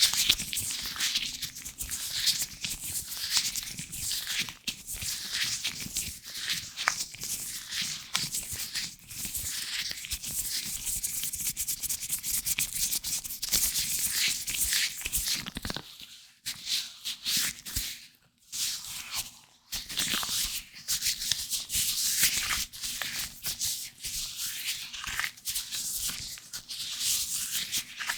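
Latex-gloved fingers rubbing and scratching directly on a microphone, close up: a dense run of quick, scratchy strokes with a couple of short pauses partway through.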